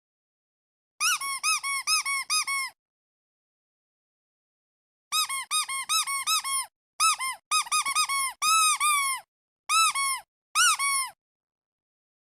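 Squeaky duck toy being squeezed over and over, giving quick runs of short squeaks that each rise and fall in pitch. A run of about seven squeaks comes about a second in, then a gap of two seconds, then a longer burst of squeaks in clusters.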